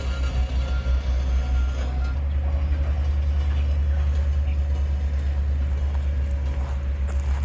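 Heavy construction machine's diesel engine running steadily, with a repeating reversing alarm beeping during the first two seconds and then stopping. A few sharp clicks near the end.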